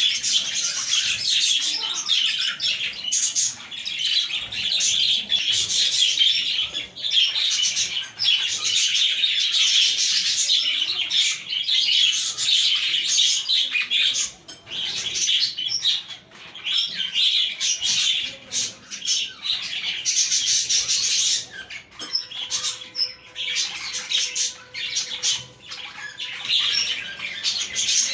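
A flock of budgerigars chattering and warbling together in a dense, continuous mass of chirps and squawks. The chatter thins to sparser calls after about twenty seconds.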